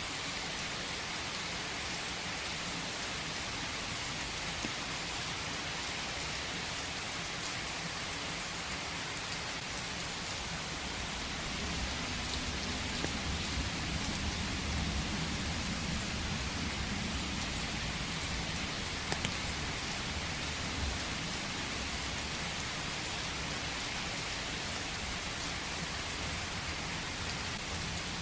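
Steady rain falling in a forest, an even hiss with scattered drops ticking. A low rumble swells about twelve seconds in and then eases.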